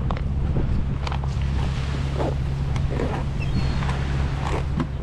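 A steady low engine hum, with wind buffeting the microphone.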